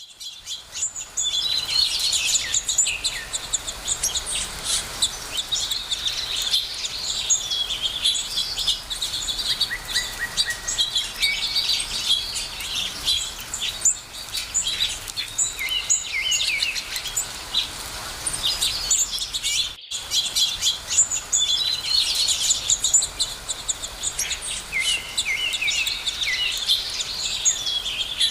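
Many birds chirping and singing at once, a dense chorus of quick, high calls and trills. A momentary break cuts through the sound about twenty seconds in.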